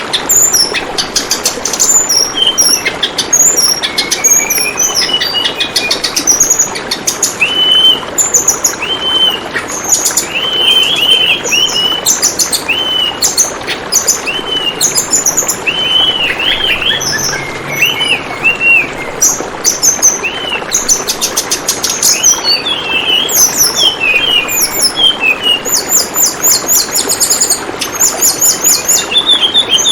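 Tledekan bambu songbird calling again and again: short arched whistles and fast high trilling runs, over a steady trickle of flowing water.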